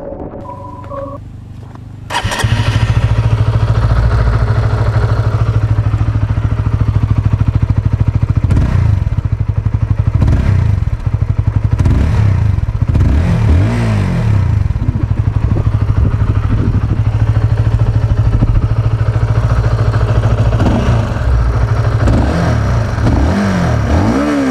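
Honda CBR150R single-cylinder engine heard at the exhaust, starting abruptly about two seconds in. It runs steadily at first, then from about a third of the way through it is revved up and down again and again.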